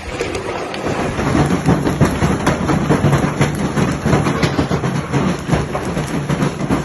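Large hailstones pelting down: a dense, loud rattle of many hits, with louder single impacts standing out now and then.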